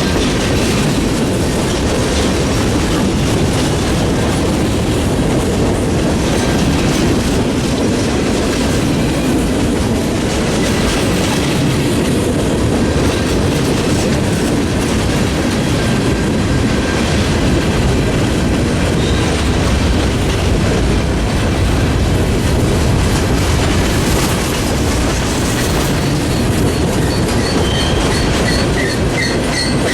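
A freight train's cars rolling past, with a steady clatter of wheels over the rail joints. A faint high wheel squeal comes in near the end.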